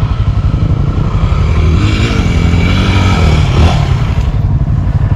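Dual-sport dirt bike engine running loud and close, its revs rising and falling a couple of seconds in, with a single knock near the middle.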